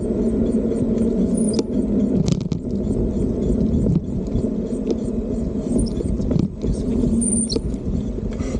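Steady low rumble of wind on the microphone and road noise while riding an electric bike, with a few faint clicks and brief high squeaks.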